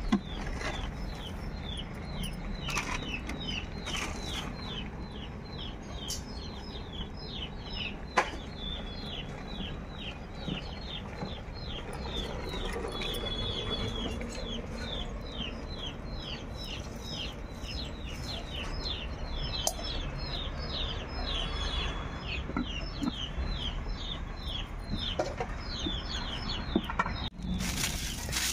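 Birds chirping continuously in quick, short, high notes that each drop in pitch, several a second, over a low steady rumble. A single sharp knock comes about eight seconds in.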